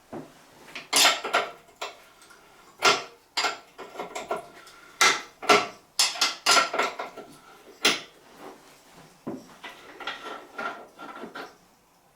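Metal tools clinking and knocking against a sink tap: a clamp and spanner being fitted and worked to undo the tap's tight valve cartridge. The hits are irregular and sharp, some with a short metallic ring.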